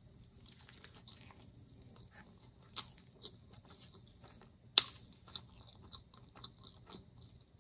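Chewing a bite of a crispy fried chicken sandwich on toasted bread: soft mouth sounds with many small crunchy clicks, and sharper crunches about three seconds in and, loudest, near five seconds.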